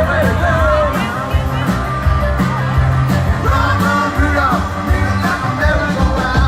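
A live band playing rock and roll with a singer over steady bass and drums.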